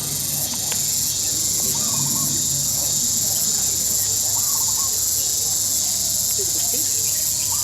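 A steady, high-pitched insect drone from the surrounding trees, with short calls from the greater flamingo flock now and then.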